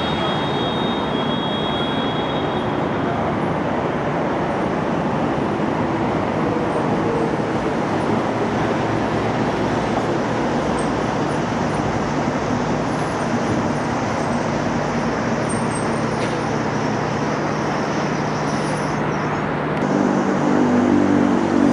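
Docklands Light Railway train running with a steady rumble. A high steady tone sounds for the first two or three seconds. Near the end the electric motors' whine climbs in pitch and grows louder as the train accelerates.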